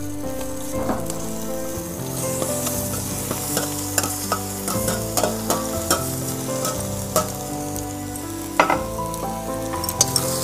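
Raw chicken pieces sizzling as they drop into a hot wok of oil and fried onions, with the clicks and scrapes of a metal spatula stirring them.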